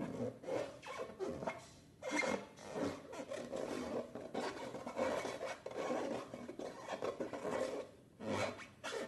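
Hands rubbing and squeezing long rubber balloons: a rough, rasping rub in irregular strokes, with a short pause about two seconds in.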